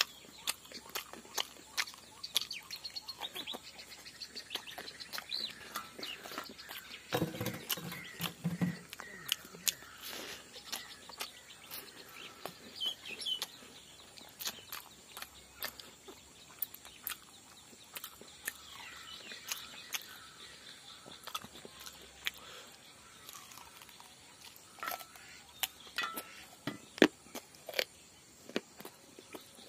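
Close-miked eating sounds of a man chewing, with many small sharp mouth clicks and smacks throughout. Birds chirp faintly in the background, and a short low murmur of voice comes about seven seconds in.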